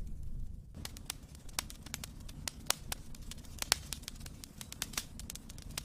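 Wood fire in a fireplace crackling, with irregular sharp pops and snaps over a low rumble. A hiss in the first moment stops abruptly.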